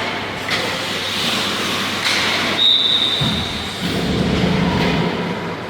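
Hockey skate blades scraping and carving on ice in an arena, with a short high-pitched squeal about halfway through and a low rumble after it.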